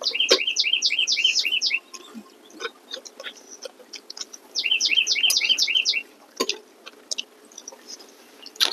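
A songbird singing: a quick run of about ten repeated two-part notes, given twice, about four seconds apart. A few faint clicks, like spoons on dishes, come between the songs.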